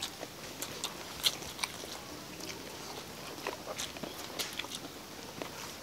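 People biting and chewing fried steamed pork ribs, eaten by hand off the bone: scattered short mouth clicks and smacks.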